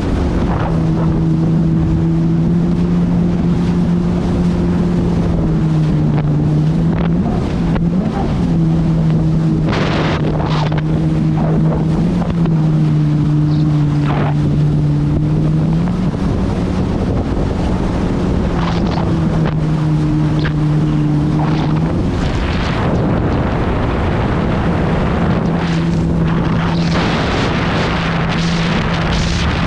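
Jet ski engine running at a steady pitch, its note dipping and cutting out several times, with a longer gap a little past the middle. Heavy wind buffets the microphone throughout.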